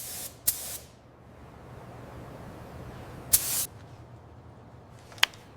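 Short bursts of hissing spray: two quick ones at the start and another about three seconds in, with a fainter hiss between them over a low steady hum. A sharp click comes near the end.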